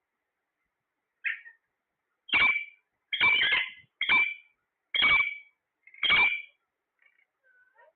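Parrot calling: a short squawk about a second in, then five loud squawks about a second apart, with faint chirps near the end.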